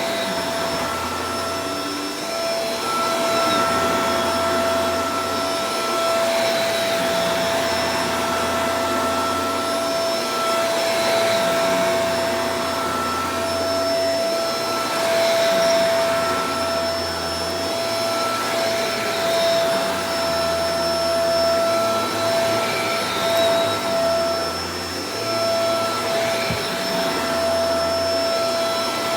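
Shark Professional Powered Lift-Away DLX (NV586) vacuum cleaner running continuously: a steady motor whine of a few fixed tones over a rushing hiss of air, with the loudness swelling and dipping slightly now and then.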